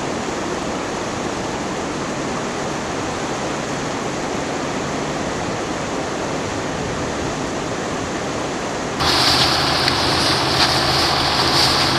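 Steady, even rush of running floodwater. About nine seconds in it gives way abruptly to a louder, hissier rush with a low steady hum beneath it.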